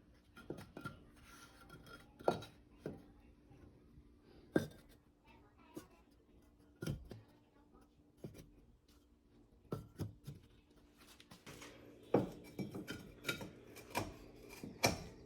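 Small clay bricks being fitted by hand onto a bed of salt: irregular knocks, clicks and scrapes, more frequent near the end.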